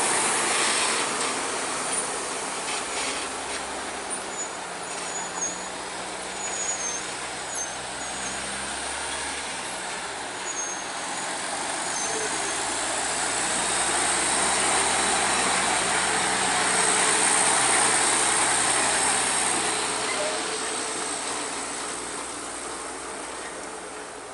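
Heavy trucks running, getting louder to a peak about two-thirds of the way through and then fading away.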